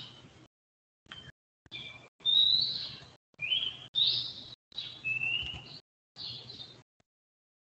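A bird chirping in a series of about six short whistled calls that slide up and down in pitch, with dead silence between the calls.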